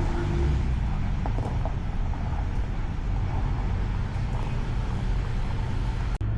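Steady low rumble of road traffic, with vehicle engines running close by. The sound briefly cuts out near the end.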